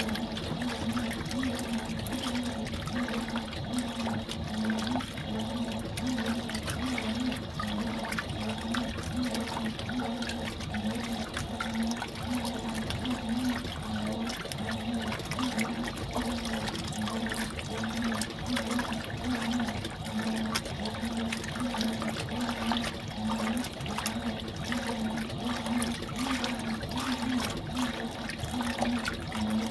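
Fisher & Paykel washing machine running with water sloshing in the tub and a low motor hum that swells and dips in a steady rhythm about once a second.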